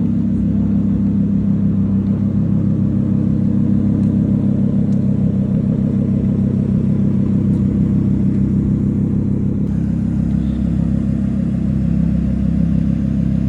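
Car engine running at a steady pace while driving, with a constant low drone and road rumble.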